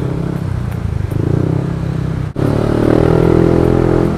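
Yamaha NMAX 155 scooter's single-cylinder engine running while riding. It cuts out for an instant about two seconds in and then comes back louder.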